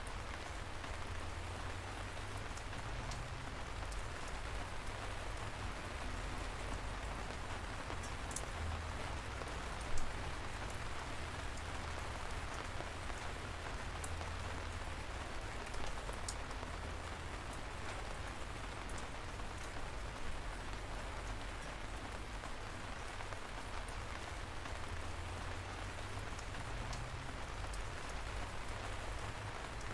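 Light rain falling steadily, a soft even hiss with scattered individual drops ticking, over a low rumble. One slightly louder drop or tap stands out about ten seconds in.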